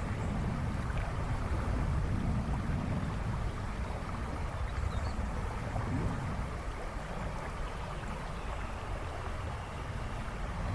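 River rushing and babbling steadily, with a deep rumble that swells and eases every few seconds.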